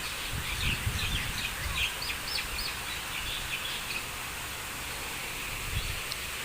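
Small birds chirping: a quick run of short, high chirps in the first three seconds and one more near the end, over a steady outdoor hiss.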